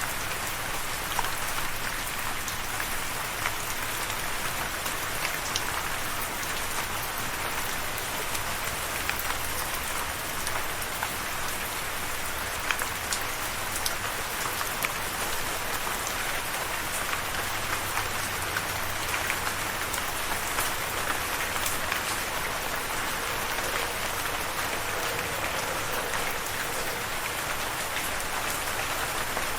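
Steady rain falling, dense and even, with many small drops pattering on a surface.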